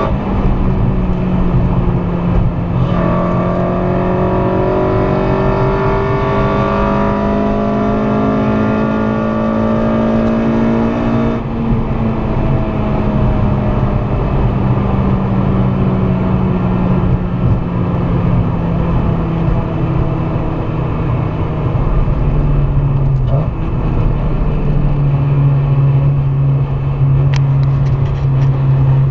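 Honda Civic Si's swapped K24A2 four-cylinder engine pulling hard under acceleration, its pitch climbing through a gear, an upshift about three seconds in, then climbing again until about eleven seconds in. The engine then lifts off and settles to a steadier, slowly falling note that drops lower again a few seconds before the end, over steady road and wind noise.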